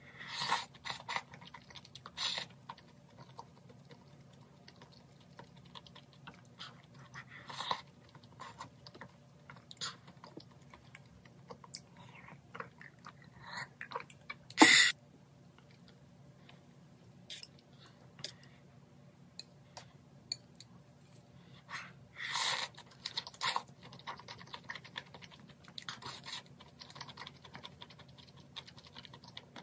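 Close-miked chewing and eating of boneless chicken feet and glass noodles from spicy broth: irregular wet clicks and smacks. One louder sharp sound comes about halfway through.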